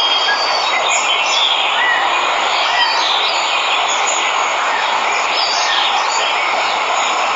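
Waterfall rushing with a steady, even roar of falling water, while jungle birds chirp now and then over it.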